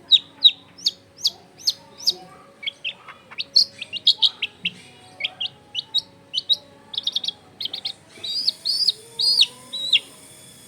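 Long-tailed shrike (cendet) singing. It opens with a string of sharp falling chirps at about two to three a second, breaks into quicker, irregular clusters of notes, and ends with a few longer drawn notes.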